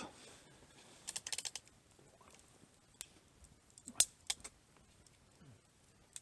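Scattered sharp clicks and taps: a quick cluster about a second in, then single clicks, the loudest about four seconds in.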